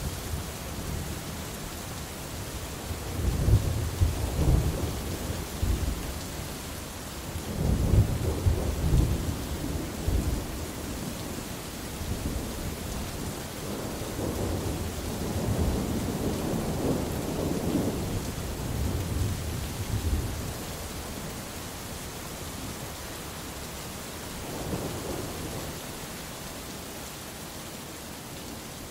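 Steady rain with rolling thunder: several long low rumbles swell and fade over the rain, the loudest cracks a few seconds in and about 8 seconds in, a longer rumble in the middle, and a weaker one near the end.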